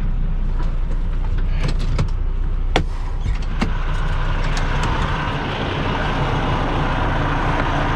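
Diesel semi-truck engine idling as a steady low hum inside the cab, with a few sharp knocks and then rustling as the floor mat is pulled and straightened.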